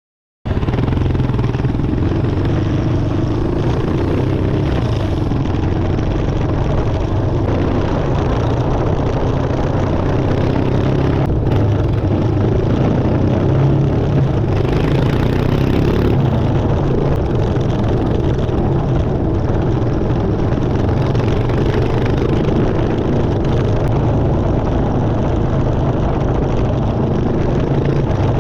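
Adventure motorcycle's engine running steadily while riding off-road, heard from a rear-mounted camera, with continuous rumble and no pauses. The sound cuts in abruptly about half a second in.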